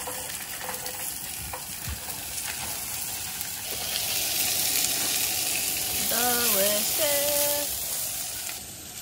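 Sliced peppers and onions sizzling in a hot pan on a camp stove as they are stirred, the sizzle swelling about four seconds in.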